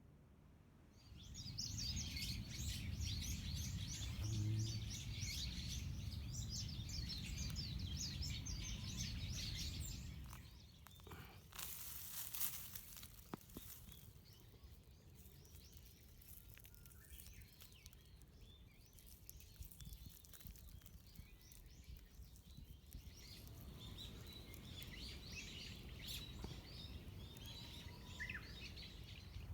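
Wild birds chirping, a dense run of fast high chirps over a low rumble for the first third, then sparser calls later. A few sharp clicks sound a little before the middle.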